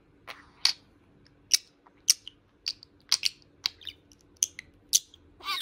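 Pet budgerigar giving a string of short, sharp, high-pitched chirps, about two a second, then a longer warbling call near the end.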